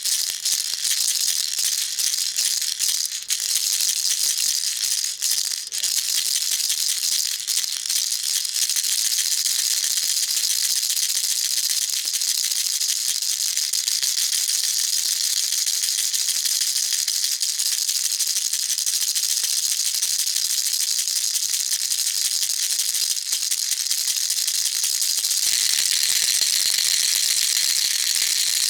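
Baby rattle shaken continuously, a dense high-pitched rattling with a few brief breaks in the first several seconds; the rattling turns slightly higher and brighter about 25 seconds in.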